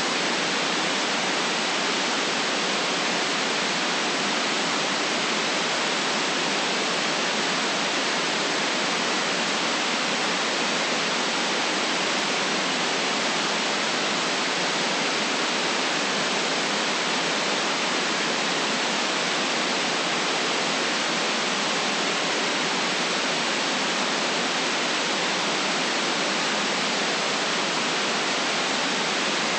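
Steady white noise: an even, unchanging hiss with no deep bass and no separate sounds in it.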